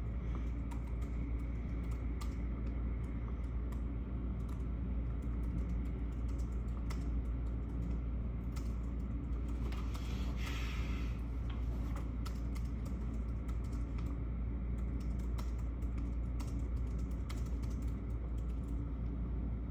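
Typing on a computer keyboard: irregular, rapid key clicks over a steady low rumble, with a short hiss about halfway through.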